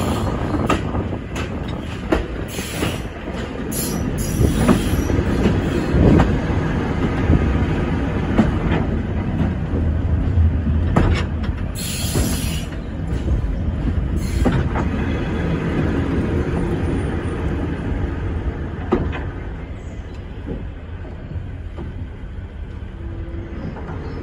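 A train running slowly over jointed track, heard from the front cab: wheels rumbling and clicking over the rail joints, with short bursts of high wheel squeal, easing down as it slows to a stop near the end.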